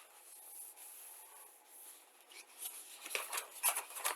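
Faint rustling and handling of a paper fold-out instruction sheet, with a few short crackles in the second half.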